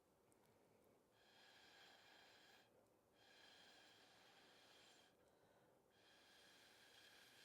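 Faint breath blown through a drinking straw to push wet acrylic pour paint across a canvas: three long blows with short pauses between them for breath.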